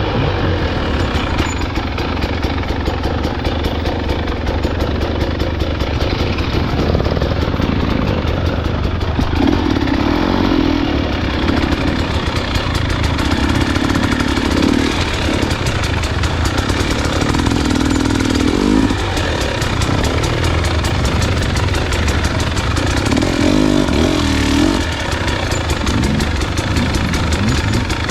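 Dirt bike engine running on a trail ride, pulling harder in several surges of a second or two between steadier running.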